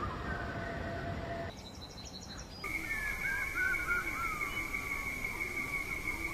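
Outdoor wildlife ambience: bird calls over a steady background hiss. The sound changes abruptly twice, first to a fast repeating high chirp, then to a steady high-pitched drone with wavering calls beneath it.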